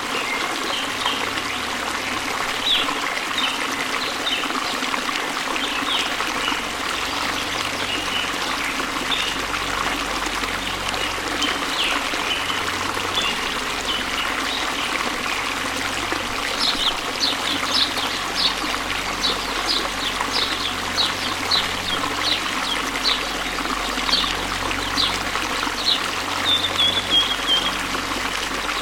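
Steady rushing of a waterfall, with short high bird chirps over it that come in a fast run from a little past halfway until near the end.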